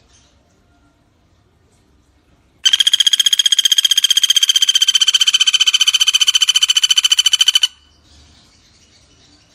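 Pelatuk bawang (common flameback woodpecker) giving one long rattling trill of rapid, even notes on a steady high pitch. It starts about three seconds in and lasts about five seconds.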